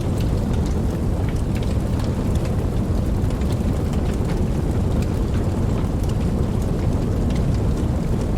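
Steady rainfall, with many separate drops ticking over a dense, even wash and a deep steady rumble underneath.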